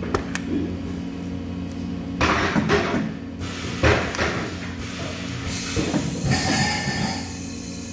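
Metal knocking and handling clatter in a welding shop, a few sharp knocks and rattles, over a steady machinery hum.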